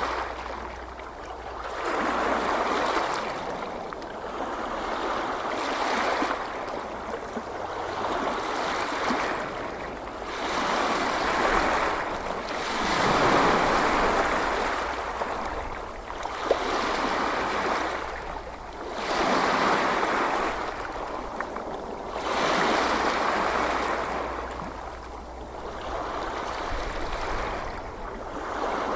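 Gentle ocean waves washing in, a rushing surge that swells and fades about every three to four seconds.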